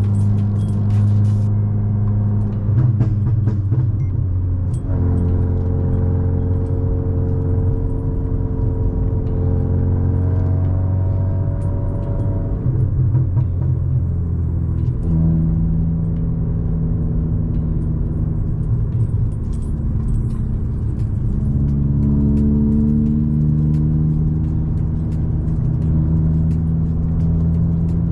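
VW Golf 5 1.4 FSI four-cylinder petrol engine running under way, its note holding one pitch for a few seconds, then stepping to another, and rising again near the end.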